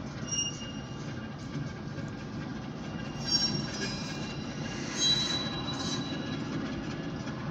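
Slow-moving freight train led by an Alco diesel locomotive, heard from inside a car: a steady low rumble with high-pitched wheel squeals, briefly about a third of a second in and again around three and a half and five seconds in.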